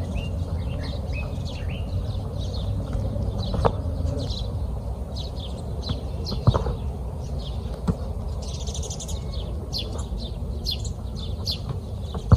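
Small birds chirping over and over in short, quick falling notes above a steady low background rumble, with a few dull thumps, the loudest about six and a half seconds in.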